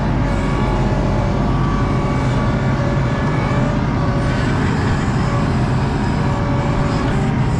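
ASV RT-40 compact track loader's diesel engine running steadily, with a thin steady whine over the engine.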